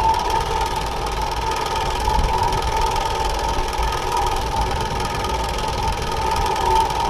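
Riding sounds from a bike-mounted GoPro: a continuous rumble of wind on the microphone under a steady, even mechanical buzz.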